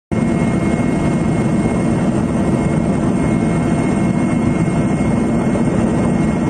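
Loud, steady engine drone with a thin, constant high whine over it. It cuts in suddenly at the start.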